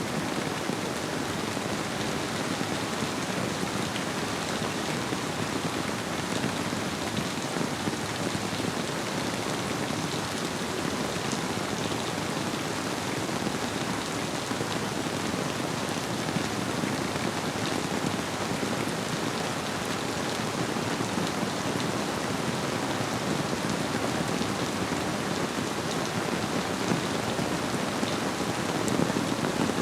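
Steady rainfall: an even hiss of many drops hitting surfaces, with a few individual drops standing out as faint ticks.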